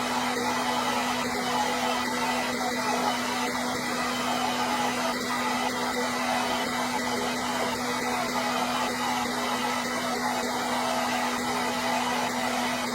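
Electric hair dryer running steadily: a continuous blowing rush with a steady low motor hum and a faint high whine.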